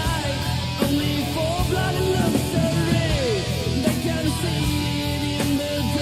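Instrumental passage of a 1980s heavy metal track: distorted electric guitars, with a lead guitar playing bent notes over bass and steady drums.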